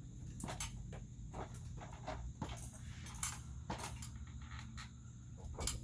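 Irregular light knocks and taps of lumber being handled and set in place while joists are fitted, over a steady low background hum.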